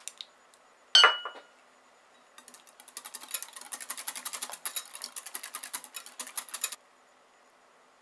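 A utensil knocks once against a bowl with a short ring, then about four seconds of quick, rapid clicking as a whisk beats custard ingredients in the bowl, stopping suddenly.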